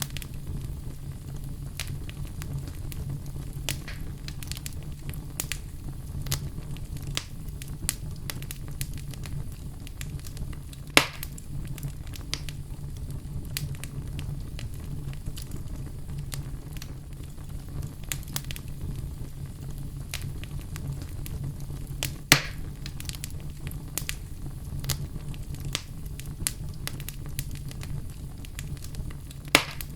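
Wood fire crackling steadily with many small snaps over a low, even rumble, and three louder pops spread through.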